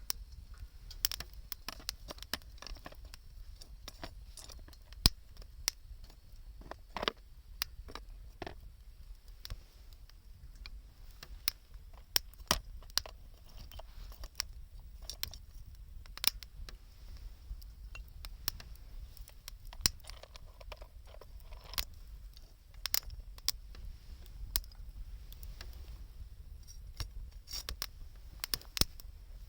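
Wood campfire crackling, with sharp pops at irregular intervals, some much louder than others, over a low steady rumble.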